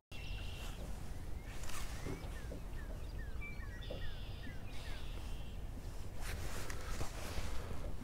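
Outdoor lakeside ambience: a steady low rumble, with a bird giving a series of about seven or eight quick, downward-sliding chirps from about two seconds in, and a few faint knocks.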